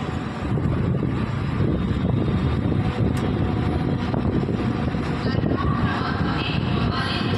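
Mumbai suburban local train running, a steady low rumble, with faint voices coming through it in the second half.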